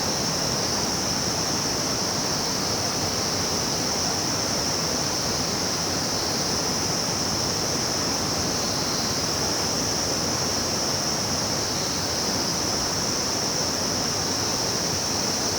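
Steady rushing of a river's flowing water, an even noise with a constant high-pitched hiss over it.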